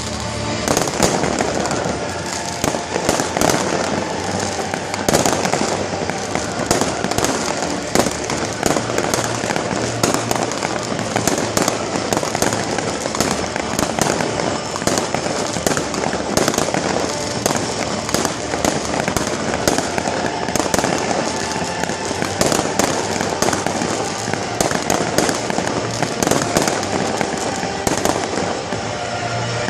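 Fireworks display at its height: a dense barrage of rapid bangs and crackles, many a second, with no let-up.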